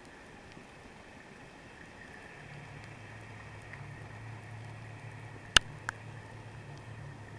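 Underwater ambience: a steady hiss, with the low hum of a boat engine coming in about a third of the way through, and two sharp clicks a fraction of a second apart just past the middle.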